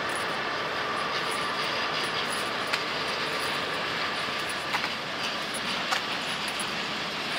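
Steel freight train hauled by a DB Cargo Class 66 diesel locomotive, running with a steady rolling noise and a few sharp clanks.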